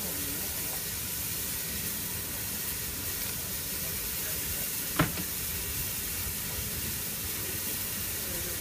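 Narrow-gauge steam locomotive hissing steam steadily, with a single sharp knock about five seconds in.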